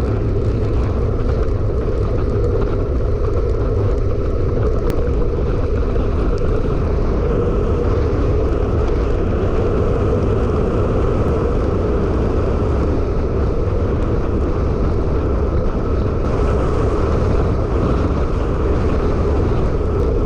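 Wind buffeting an action camera's microphone on a moving bicycle: a steady low rumble with a hiss above it.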